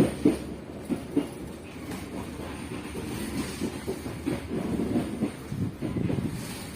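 Passenger train running along the track, its wheels clattering unevenly over the rails above a steady low rumble, with the heaviest knocks near the start.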